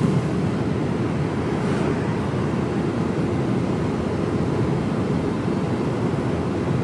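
Steady engine and road noise of a Mercedes Actros truck driving along, heard from inside the cab: an even, deep drone with no changes.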